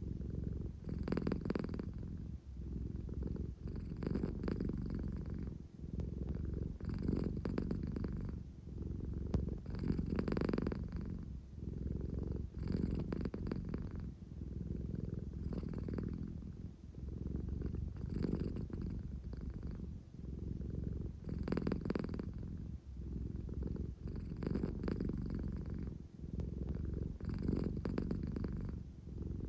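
American Shorthair cat purring: a continuous low rumble that swells and eases with each breath, about once every two and a half to three seconds. It is the contented purr of a drowsy cat seeking affection.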